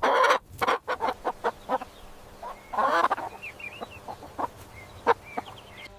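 Chicken clucking: a run of short, sharp clucks, with a louder, longer call about three seconds in.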